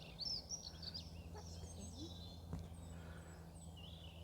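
Small songbirds twittering: quick runs of short high chirps, busiest in the first second or so, with a few thin high notes later, over a faint steady low hum.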